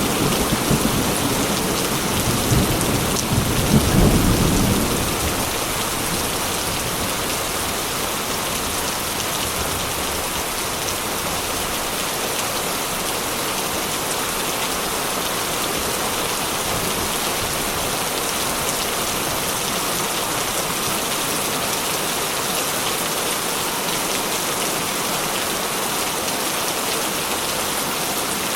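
Heavy rain drumming steadily on a corrugated metal roof, with a low rumble of thunder that fades out about five seconds in.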